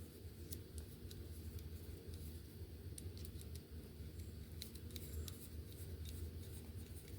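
Light, irregular clicks and clinks of a small precision screwdriver set being handled, its bits and drivers picked through, over a steady low hum.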